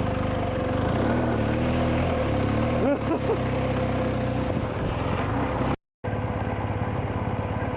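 BMW GS boxer-twin motorcycle engine running steadily at low revs on a slow off-road trail, with a brief dropout just before six seconds in.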